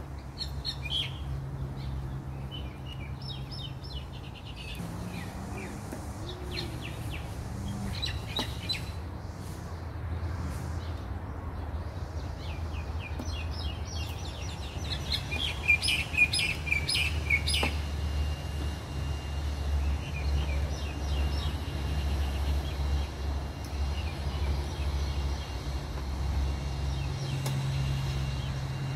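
Birds chirping and calling in quick high runs, busiest about halfway through, over a steady low rumble, with a couple of faint clicks.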